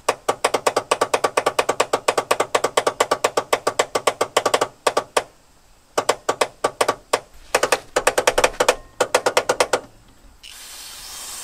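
Rapid, even clicking from the starter and solenoid of a Mercury Zephyr Z-7's 200 inline-six, about eight clicks a second: one long run, then three shorter ones, without the engine starting. The owners suspect the engine has seized. Near the end, an aerosol can of brake cleaner sprays with a steady hiss.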